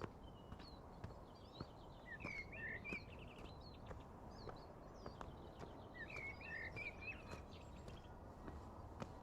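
Birds singing in a forest: one bird repeats a short warbled phrase twice, about four seconds apart, over scattered higher chirps from other birds. Light clicks and knocks, likely footsteps on the trail, sound over a steady low outdoor hiss.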